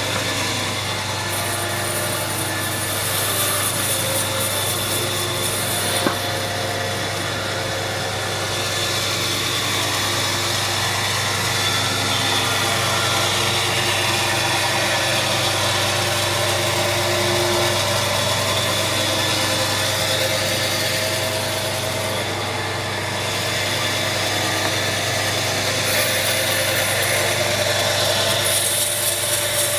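A machine running steadily: a constant low hum under a noisy hiss. The hiss grows brighter for a few seconds near the start and again near the end.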